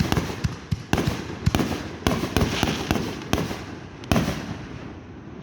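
Fireworks going off: a rapid string of sharp bangs with crackling between them, the last big bang about four seconds in, then dying away.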